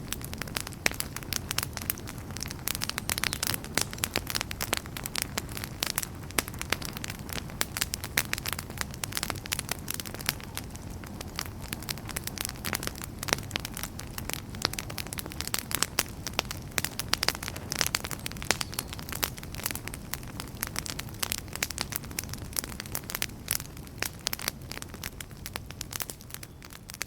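Wood campfire burning, with a dense run of sharp pops and crackles over a low steady rumble of flame.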